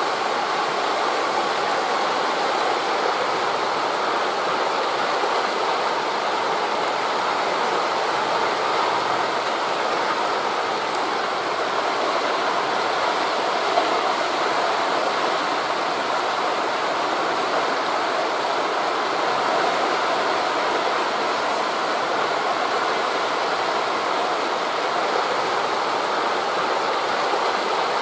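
Steady rushing noise of wind through trees and distant surf, holding an even level without distinct swells.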